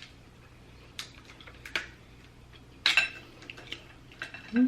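A few sharp clinks of tableware and shells against a dish during a seafood meal. The loudest comes about three seconds in and rings briefly, with smaller ticks between.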